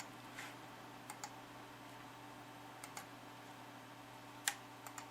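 A few faint, scattered clicks of a computer mouse and keyboard being used to shut the computer down, the clearest about four and a half seconds in, over a low steady hum.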